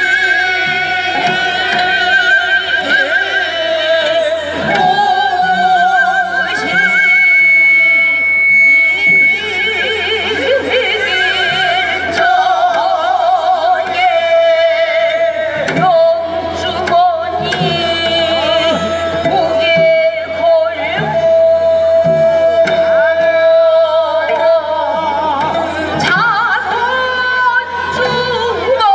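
Korean traditional (gugak) music played live: a melody with heavy wavering vibrato, holding one long note through the middle, over regular drum strikes.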